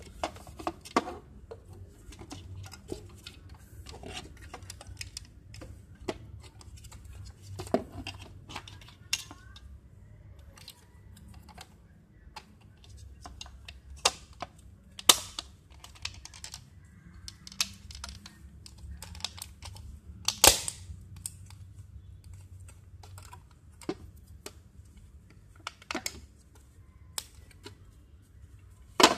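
Irregular clicks and taps of hard plastic and metal parts being handled and fitted while a UPS unit is reassembled, with a few louder knocks, over a steady low hum.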